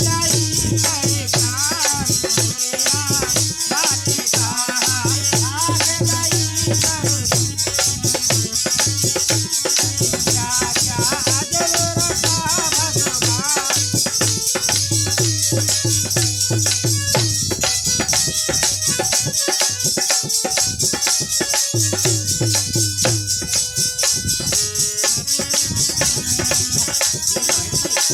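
Bhajan music from a devotional singing group: rattling hand percussion keeps a steady beat under a melody, with a voice singing through roughly the first half.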